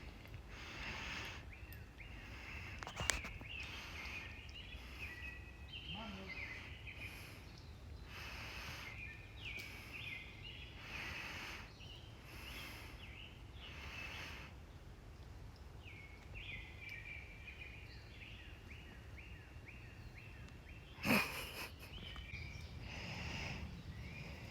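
Songbirds chirping over open-air trail ambience, with soft rustling that comes back about once a second. A sharp click comes about three seconds in, and a louder thump near the end.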